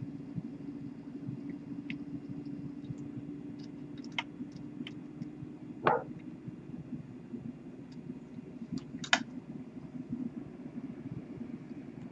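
Small metal tools clicking and tapping against a rebuildable drip atomizer's deck as its loosened positive and negative post screws are tightened: a few sharp, scattered clicks, two louder ones about six and nine seconds in, over a steady low hum.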